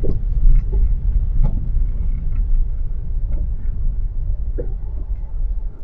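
Car driving on a snow-covered road, heard from inside the cabin: a steady low rumble of engine and tyres, with a few faint knocks.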